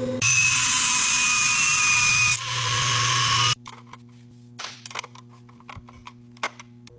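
A workshop power tool runs with a loud whirring hiss and a thin whine for about three seconds, then stops abruptly. Scattered light clicks and metallic taps of hand work follow.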